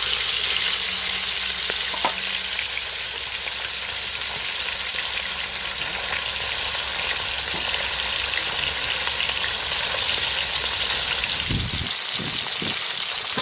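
Pieces of fish, rubbed with salt and turmeric, frying in hot oil in a kadai, with a loud, steady sizzle. There is a single click about two seconds in and a few low knocks near the end.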